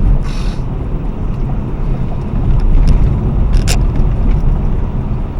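R55 BMW Mini on the move: a steady low rumble of road and wind noise with a few sharp knocks from the front end, the loudest about three and a half seconds in. The knock is an unresolved front-end fault that the owner has not traced to any of the newly fitted suspension parts.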